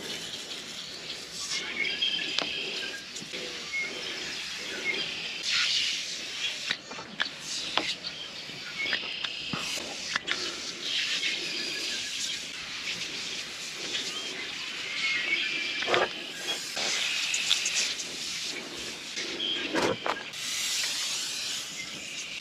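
Degreaser being sprayed in repeated short hissing bursts.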